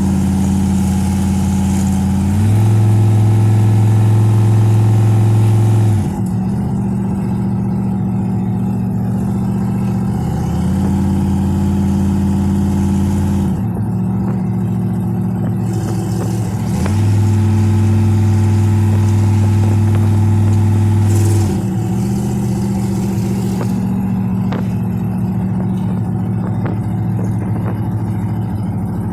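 Supercharged 1957 Chevy's engine heard from inside the car while driving: its pitch holds steady, then shifts in steps, and it runs louder twice for a few seconds as it pulls harder.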